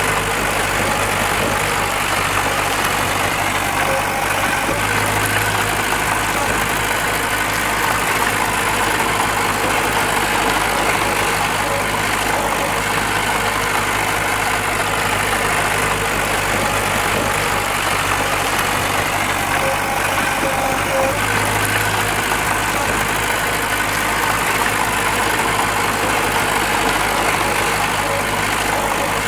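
Diesel engine of earthmoving machinery running steadily. It gives a low hum that swells briefly about five seconds in and again about twenty-one seconds in.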